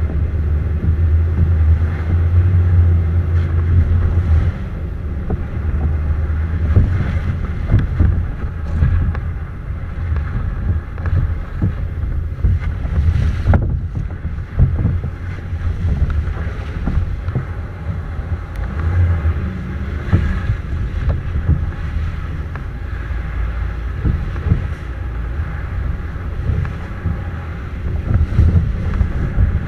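Wind buffeting the microphone: a loud, continuous low rumble that surges irregularly.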